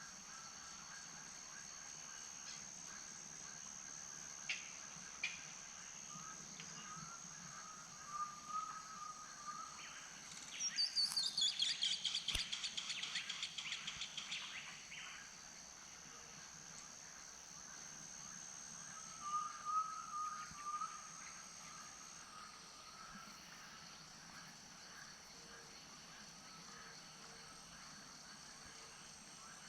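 Wild birds calling over a steady high-pitched hum: a loud, rapid run of notes falling in pitch about ten seconds in, lasting some four seconds, and shorter warbled phrases from another bird twice.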